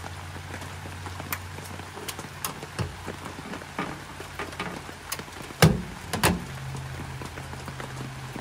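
Rain pattering and dripping over a low steady hum, with two loud sharp knocks a little past halfway as a small metal propane camp stove is set down on a wet pickup tailgate.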